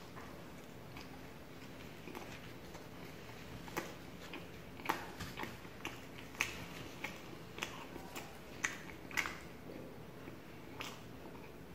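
A person chewing paratha and rajma curry with the mouth close to the microphone, with irregular wet smacks and clicks that come thicker from about four seconds in.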